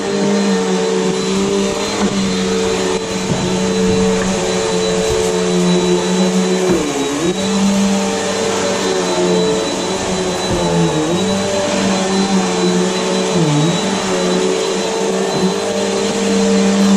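Upright vacuum cleaner running steadily on carpet, a constant motor hum with a thin high whine. Its pitch sags briefly three times, about a third, two thirds and four fifths of the way through.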